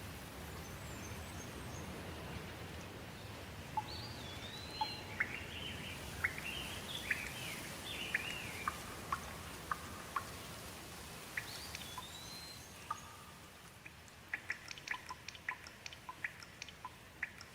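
Steady hiss of light rain that slowly fades, with a bird chirping a string of short calls through the middle and a quick run of sharp drips near the end.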